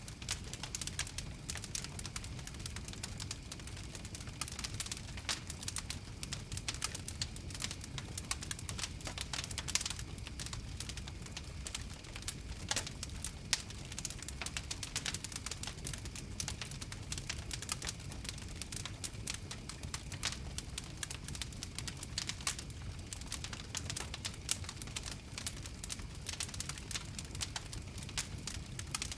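Wood fire crackling steadily, with a dense run of irregular sharp pops and snaps over a low, even rumble of flames.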